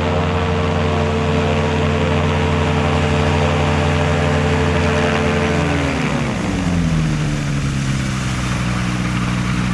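Engine of a homemade light aircraft running steadily, then throttled back about six seconds in, its pitch falling to a steady lower idle.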